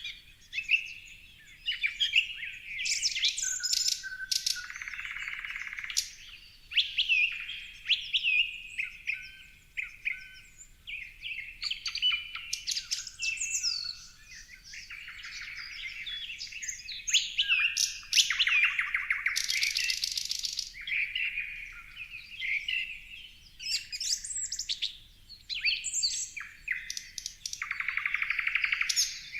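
Several songbirds chirping and singing over one another, with quick whistled notes and a few fast buzzy trills, the loudest about two-thirds of the way through and another near the end.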